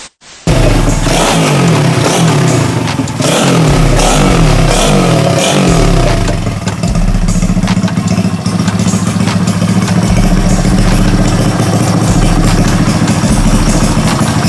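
Honda Wave 125 motorcycle's rebuilt single-cylinder engine running just after its first start, revved in a series of quick throttle blips for the first several seconds, then held running steadily at raised revs.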